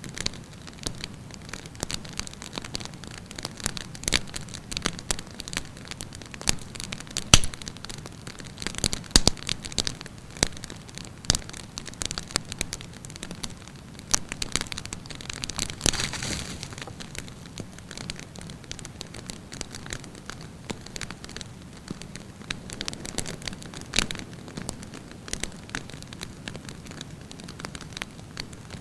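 Wood campfire burning, with irregular sharp crackles and pops over a steady hiss and a brief hissing flare-up about halfway through.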